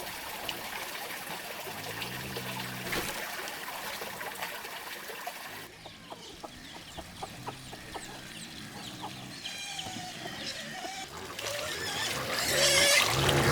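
Chickens clucking against a steady trickle of running water. The water noise drops away suddenly about halfway, leaving short clucks and chirps, and returns louder near the end.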